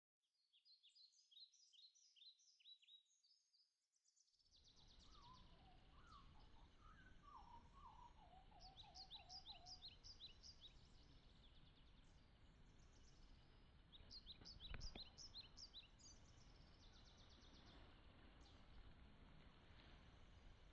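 Faint birdsong: quick high chirps repeated throughout, and a lower, falling run of chirps between about five and ten seconds, over a steady outdoor hiss that comes in about four seconds in. A soft thump about fifteen seconds in.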